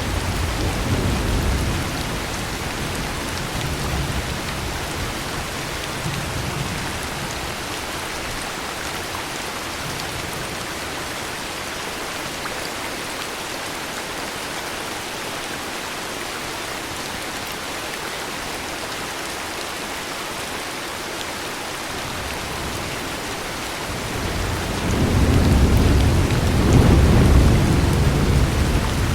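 Heavy rain falling steadily, with thunder: a low rumble dying away in the first couple of seconds, then a louder rolling rumble building up near the end.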